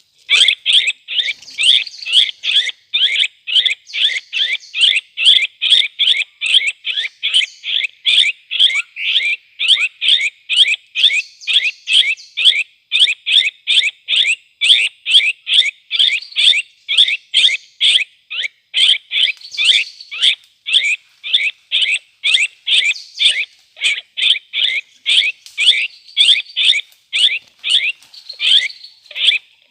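Cucak kopi bird call: short, loud notes repeated evenly and rapidly, about three a second, on and on without a pause.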